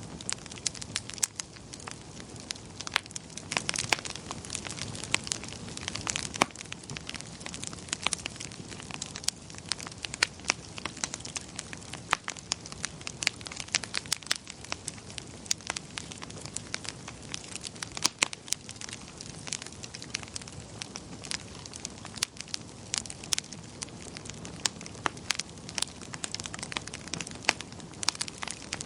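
Wood fire burning in a fireplace: a steady low rush of flames with frequent sharp crackles and pops, several a second.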